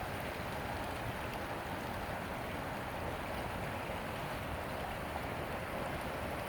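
Steady rushing outdoor noise, with wind rumbling on the microphone and no distinct events.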